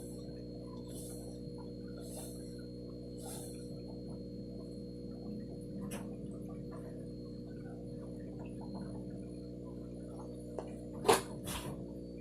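Bearded dragon feeding on superworms: soft rustles and faint clicks over a steady hum, then one sharp, loud snap near the end followed by two smaller clicks.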